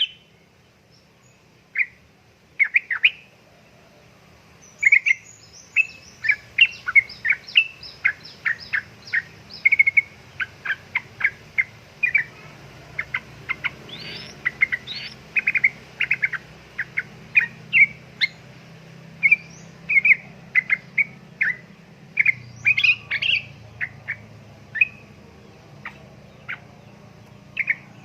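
Yellow-vented bulbul (trucuk) calling in quick runs of short chirping notes. It starts sparsely, then turns into a dense, rapid chatter from about five seconds in.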